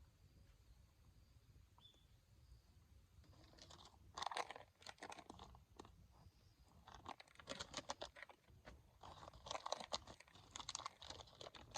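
Plastic food packaging crinkling and crackling as it is handled, in irregular bursts starting about four seconds in and growing busier toward the end.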